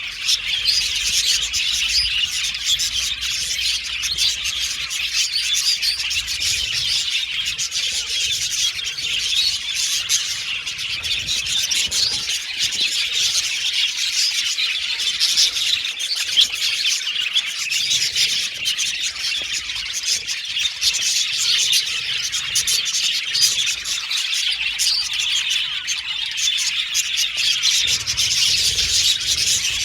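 A flock of budgerigars chattering and chirping continuously, many birds calling over one another in a dense, steady stream of short high chirps and warbles.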